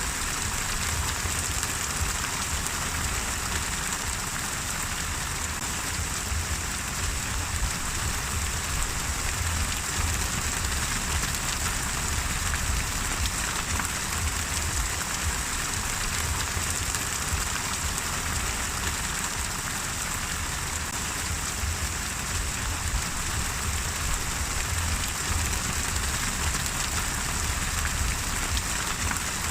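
Steady rain falling, a continuous hiss of drops with a low rumble underneath.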